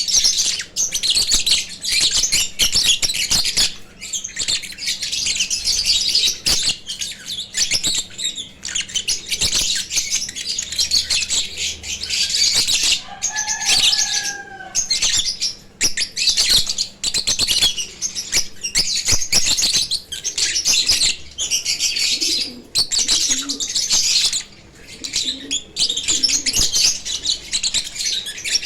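A flock of lovebirds chattering: dense, shrill chirping goes on without a break, with many sharp clicks among it. About halfway through, one lower two-note call stands out.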